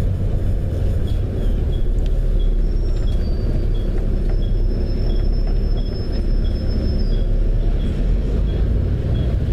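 Steady engine and road rumble heard from inside a moving bus, with a faint high tick about twice a second and a thin high whine for a few seconds in the middle.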